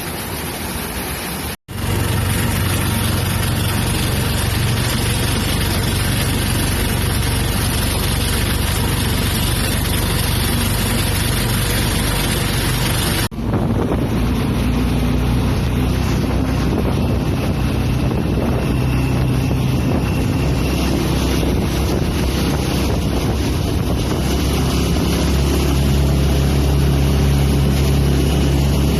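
Motorboat engine running at a steady drone, with wind buffeting the microphone and the rush of water around the hull. The sound breaks off abruptly twice, near the start and about halfway through, then carries on.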